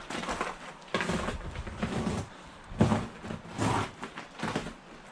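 A series of irregular knocks and clatters, about five over a few seconds, in a small hard-walled room.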